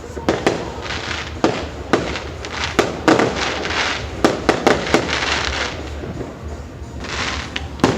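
Fireworks going off: a run of sharp bangs and cracks at irregular intervals, with short stretches of crackling noise between them.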